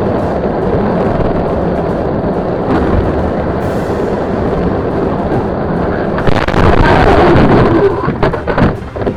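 Loud vehicle noise, a dense rumble of engine and road, swelling louder about six seconds in.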